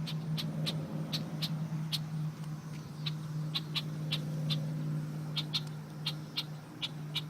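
Parent birds giving short, sharp alarm calls repeated about two to three times a second, scolding an intruder near their young, over a steady low hum.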